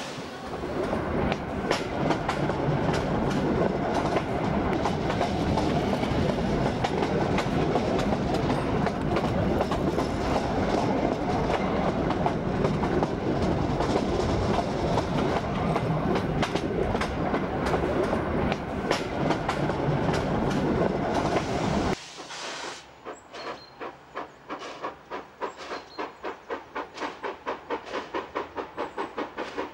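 Rail vehicle running along the track, a loud steady rumble and rattle of wheels on rails. About 22 seconds in it cuts off suddenly to a quieter rhythmic beat that gradually quickens.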